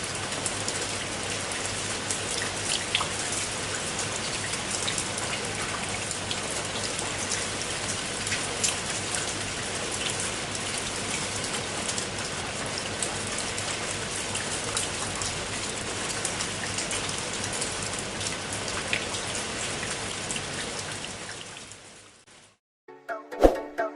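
Water splashing steadily onto a koi pond's surface from its water feature, a rain-like pattering of drops over a low steady hum. It fades out near the end, and a bell-like chime sounds just before the close.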